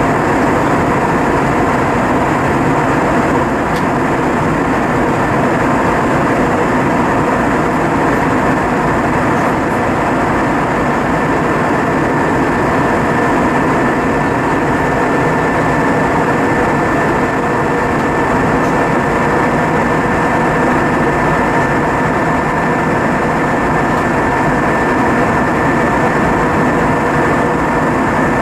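Steady cabin noise inside an Airbus A320-232 in flight: an even rush of airflow and engine hum with a thin steady whine, unchanging throughout.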